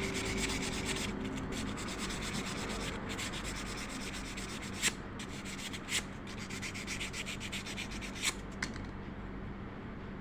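Fine sandpaper rubbing steadily over a Butterfly sewing machine's metal shuttle, smoothing off a sharp edge, with a few light clicks.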